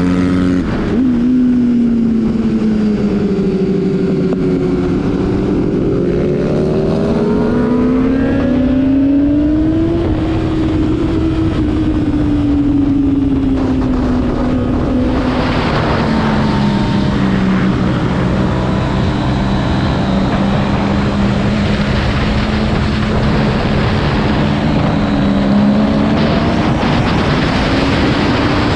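Motorcycle engine running hard on a track lap, its pitch falling and rising as the rider slows and accelerates. Wind rushes over the microphone from about halfway through.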